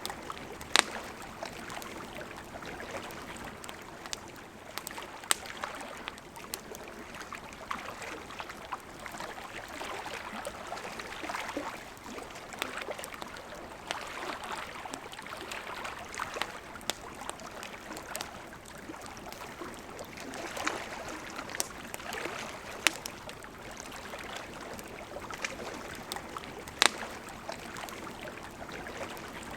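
Campfire crackling, with scattered sharp pops, the loudest about a second in and twice more near the end, over the steady rush of a flowing river.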